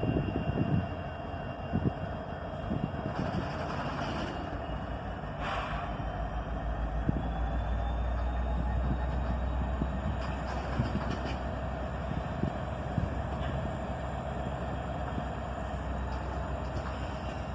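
Diesel-electric freight locomotives, a GE ET44AH and a rebuilt SD70AC, running under load as they shove a long freight train backward. Their engines give a steady low rumble that builds through the middle, with a few thumps in the first second.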